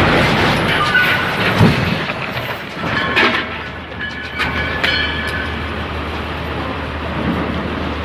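Heavy machinery running with a steady low rumble, with a few metallic clanks and rattles about three to five seconds in.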